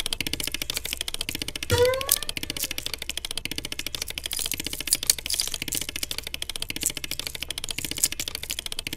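Rapid, dense clicking that keeps on throughout, with one short rising squeak-like cry about two seconds in.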